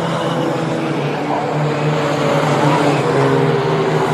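Mighty Trucks class race trucks running at speed on a short oval, several engines heard together as a steady, slightly shifting drone.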